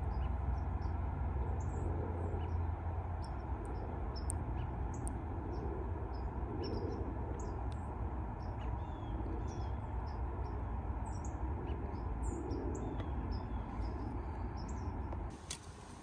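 Small birds chirping, many short high calls scattered throughout, over a steady low rumble. A click comes about half a second before the end, and the rumble drops away.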